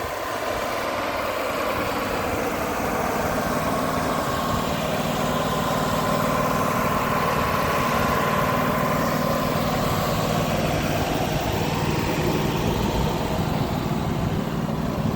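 An engine running steadily, with a faint higher whine that swells in the middle and fades again.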